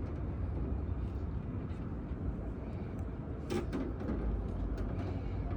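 Steady low outdoor rumble with a hiss above it, and a brief clatter about three and a half seconds in.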